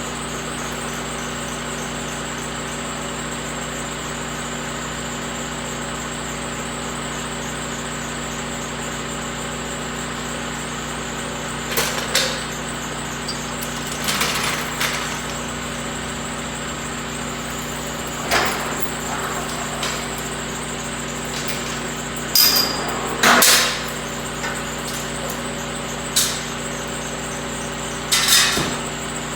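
An engine idling steadily, with a series of sharp metal clanks and knocks starting about halfway through, some ringing briefly, from heavy parts and tools being handled while the removed axle is set down and things are cleared away.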